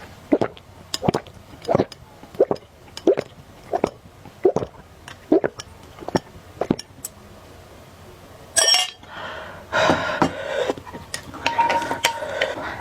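Close-miked eating sounds: rhythmic chewing about once every 0.7 s for about seven seconds, then a sudden louder sound and a noisier stretch of eating and dish sounds toward the end.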